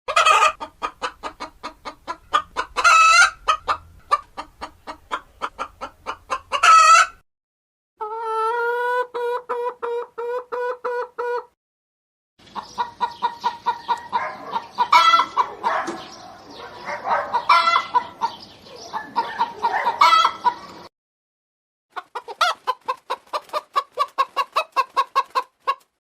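Chickens clucking in rapid runs of short calls, broken now and then by a longer drawn-out cackle. The calls come as four separate stretches with brief silences between them.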